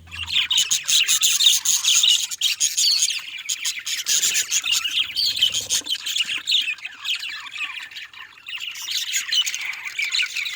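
A flock of budgerigars chattering and squawking together, a dense, continuous mass of overlapping high chirps and warbles.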